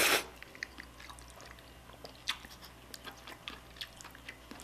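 Close-miked chewing of a mouthful of spicy beef soup with rice, with many small wet mouth clicks scattered through. A brief rush of noise comes right at the start.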